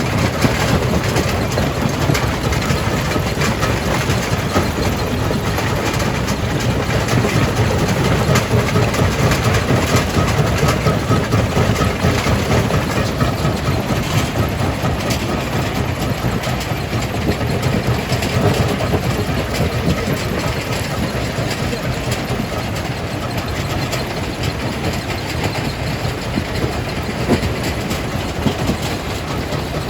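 Jaw crusher breaking rock: a continuous dense clatter of crushing stone over a low, steady machine drone.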